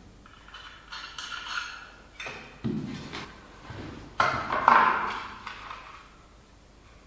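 Irregular knocks and clinks of hard objects being handled and set down, several with a short ring, the loudest pair about four to five seconds in.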